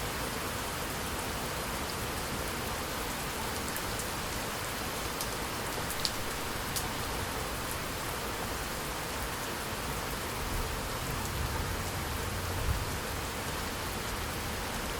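Steady rainfall, an even hiss with a few sharp individual drop taps. A faint low rumble swells briefly in the second half.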